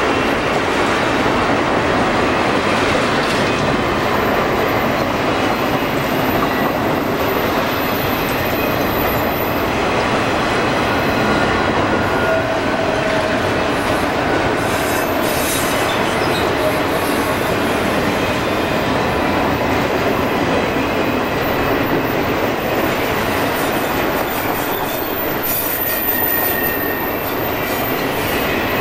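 Freight train's autorack cars rolling past on curved track: a steady rumble of steel wheels on rail, with faint wheel squeal coming and going.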